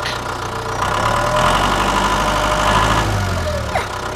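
Tractor engine running at idle, getting louder about a second in and easing off again near the end.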